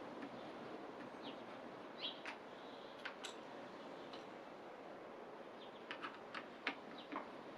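Faint bird chirps, short downward-sliding calls, over low background hiss, with a scatter of light clicks bunched near the end.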